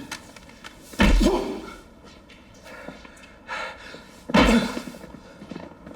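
Blows landing in a fistfight: two heavy thuds, one about a second in and one after about four seconds.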